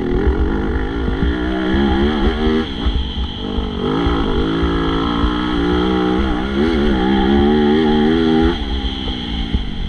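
Motocross bike engine revving up and falling back again and again, working through the throttle on an MX2 race track, with a heavy low rumble underneath. The engine note drops away near the end.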